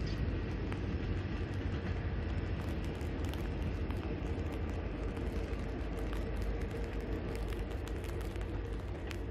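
Tank-car freight train hauled by a diesel locomotive rolling away: a steady low rumble with a faint steady hum, easing slightly near the end, with scattered light ticks over it.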